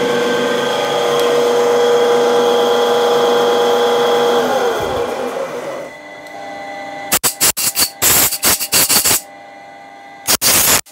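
Milling machine spindle motor running steadily with a constant whine, then switched off about four seconds in, its pitch falling as it winds down. After a short lull come several short, loud, noisy bursts in quick succession.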